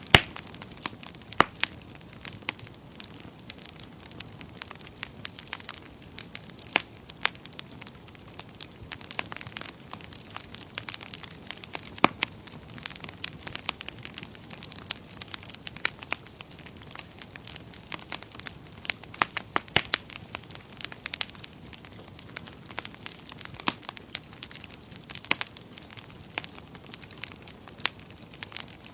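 Wood fire crackling in a fireplace: irregular sharp pops and snaps, a few a second, over a soft steady hiss.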